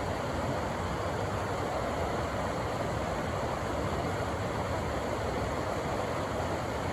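River water rushing in a steady, unbroken roar over rocks.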